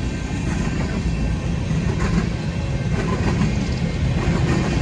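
Freight train passing close by, with the diesel engines of its mid-train distributed-power locomotives running in a steady low rumble.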